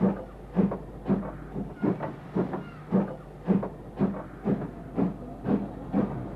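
Steam locomotive exhaust chuffing at about two beats a second, each beat a sharp puff of steam over a low rumble.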